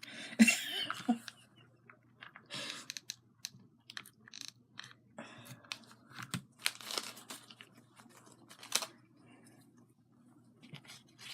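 Craft materials being handled and torn apart: scattered light crinkling and tearing sounds with small clicks, on and off.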